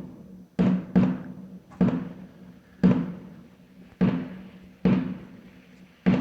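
Fireworks exploding, about eight sharp bangs at uneven intervals of half a second to a second, each trailing off in a long echo.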